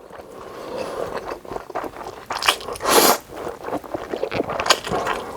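Close-miked eating: crunchy bites and chewing in irregular bursts, the loudest crunch about three seconds in.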